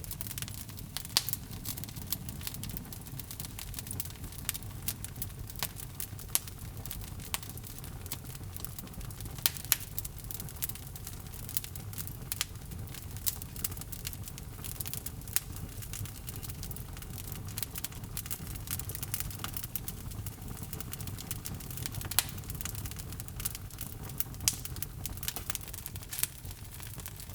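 Log fire crackling in a fireplace: a steady low rumble of flame with irregular sharp snaps and a few louder pops.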